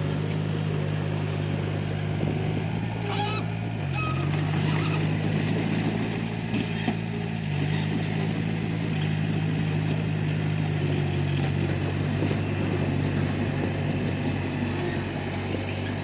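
Komatsu D31P bulldozer's diesel engine running steadily, its pitch dipping briefly twice as the load changes, with a few faint clanks.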